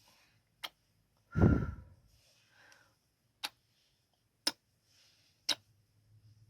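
Close-miked kissing sounds: sharp lip smacks at intervals of about a second, with one louder, breathy kiss that puffs into the microphone about a second and a half in, and soft breaths between.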